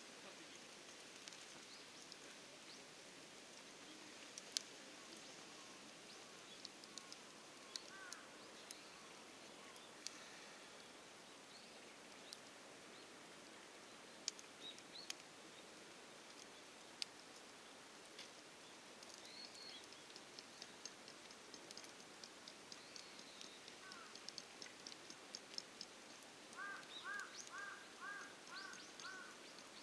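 Quiet outdoor background with a faint steady hiss and scattered sharp cracks from a wood campfire. Birds call now and then, and near the end one gives a quick run of repeated chirps.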